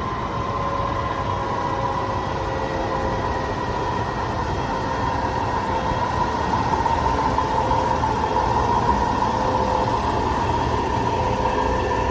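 Electric train running at a steady speed: a steady whine over a continuous rumble of wheels on rail, growing a little louder about halfway through.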